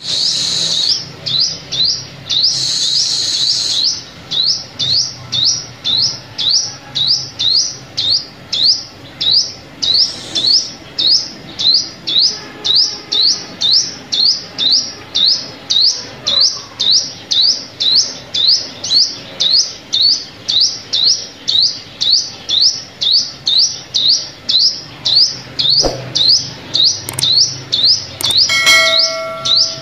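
Sunbird calling: a long run of short, thin, high notes that sweep in pitch, repeated steadily about twice a second, with a denser twittering burst in the first few seconds. A brief pitched beep sounds near the end.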